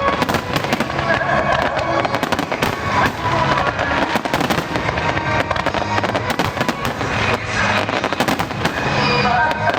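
Starmine fireworks barrage: a dense run of bangs and crackling bursts in quick succession, with music playing underneath.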